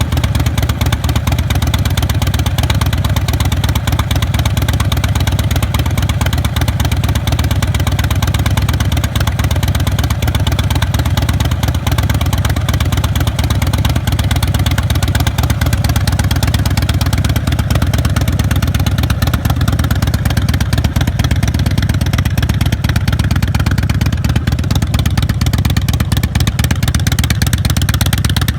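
A Big Dog chopper's V-twin engine running steadily, with no revving.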